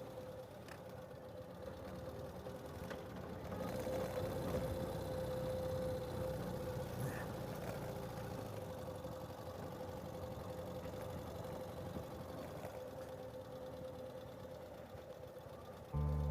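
Ural sidecar motorcycle's flat-twin engine running steadily on a dirt track, getting a little louder about four seconds in and then easing off. Music starts abruptly right at the end.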